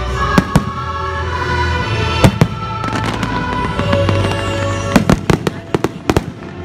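Fireworks shells bursting in sharp bangs over the show's music: a pair near the start, another pair about two seconds in, and a quick run of bangs in the last two seconds.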